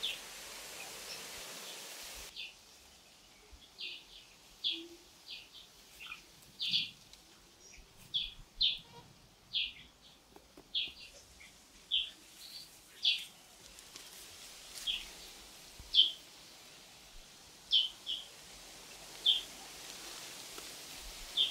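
A bird chirping over and over: short, sharp high calls about once a second at irregular spacing, over a faint steady background hiss.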